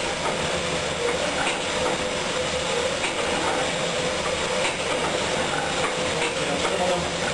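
Triple-expansion marine steam engine running, a loud steady mechanical clatter with a regular beat and a steady tone through it.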